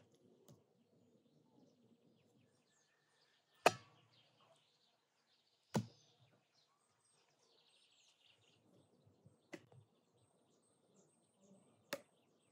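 Four sharp knocks, about two to four seconds apart, the first the loudest, with birds chirping faintly in the background.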